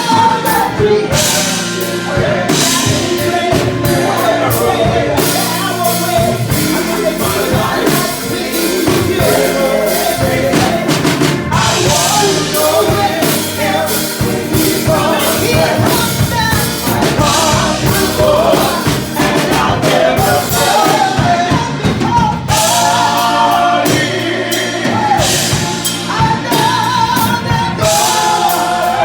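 Live gospel music: a woman singing lead over a full band with drum kit, the voice rising and falling in long sung lines.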